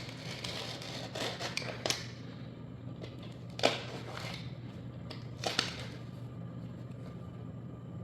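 Laminate planks and hand tools knocking and clicking as a plank is worked loose and removed: scattered light clicks, with sharper knocks near halfway and about two-thirds through, over a low steady hum.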